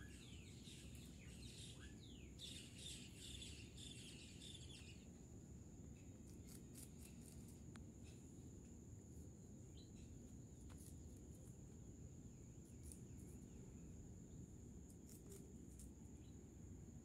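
Quiet outdoor ambience with faint bird chirps in the first five seconds or so, then only scattered faint clicks. A steady thin high-pitched whine and low background noise run underneath.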